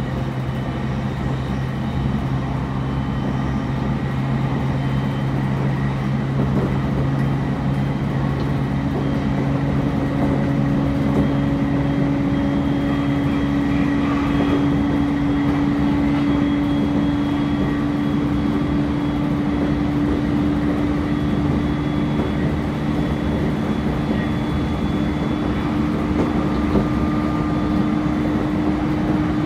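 Interior running sound of a JR East E531 series electric train with Hitachi IGBT-VVVF traction, travelling at speed: a steady rumble of wheels on rails with a low hum that rises slowly in pitch, growing slightly louder.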